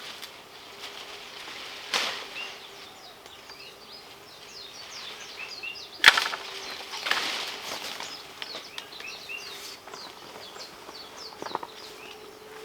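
Rustling and footsteps through dense vegetation, with a knock about two seconds in and a sharp snap about six seconds in, followed by a brushing rush. Many small birds chirp over it, and a faint steady hum runs underneath.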